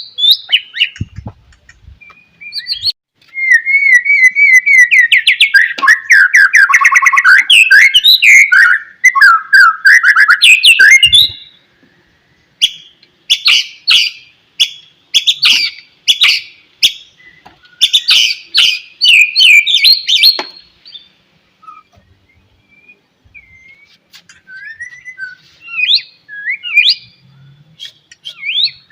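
White-rumped shama (murai batu) singing in long, varied phrases. A rich warbling run of whistles comes first, then a stretch of rapid, sharp repeated notes, and fainter scattered notes near the end.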